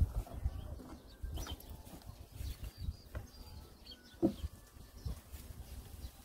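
Faint bird chirps over a low rumble on the microphone, with one short, louder animal call about four seconds in.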